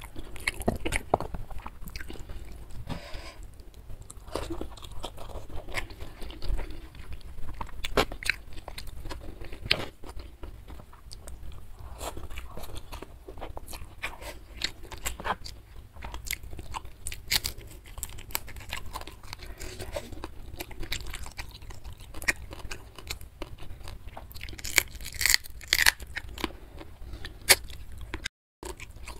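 A person chewing and crunching food close to the microphone: a steady run of small crisp crunches and clicks, with a few louder crunches near the end.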